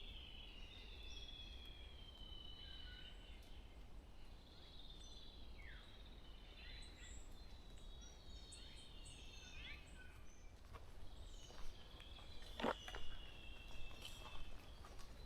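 Several small songbirds singing and calling in a forest at dawn, a steady overlapping chorus of high chirps and drawn-out notes with a few falling sweeps. A few sharp footsteps come in during the last few seconds.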